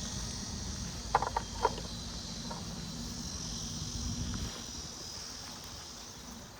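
Insects chirring steadily in a high register over a low outdoor rumble, with a few quick clicks about a second in.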